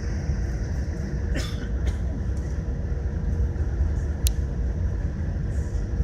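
Steady low rumble of a Boeing 787 Dreamliner's engines and air-conditioning heard inside the cabin on the ground, with a faint steady hum and hiss. A brief rattle comes about a second and a half in, and a sharp click about four seconds in.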